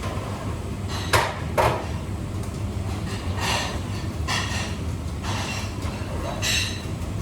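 Kitchen handling sounds: two sharp knocks about a second in, then several brief scrapes or swishes, over a steady low hum.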